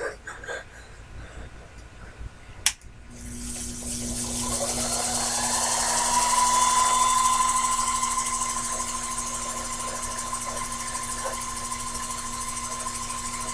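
A Sherline mini lathe is switched on with a click, and its motor and spindle spin up with a rising whine. It then runs steadily at speed.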